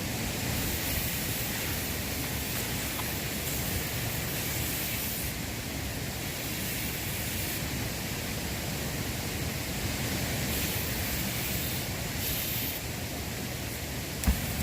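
Steady outdoor rushing noise with one sharp knock near the end.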